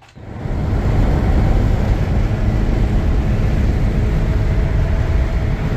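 A vehicle on the move: steady, loud engine and road noise that starts suddenly.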